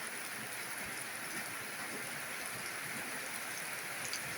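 Steady rain falling, an even hiss with a few scattered drips.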